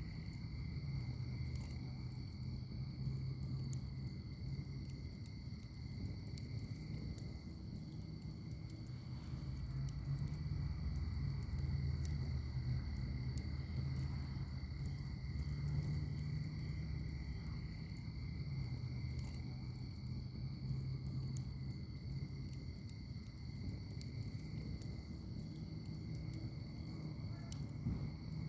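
Wood fire in a fire pit crackling, with scattered sharp pops over a low, flickering rumble from the flames. Crickets trill steadily throughout.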